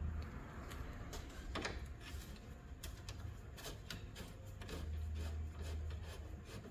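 Phillips screw being backed out of the plastic grille with a screwdriver: faint scattered clicks and scrapes, over a low steady hum.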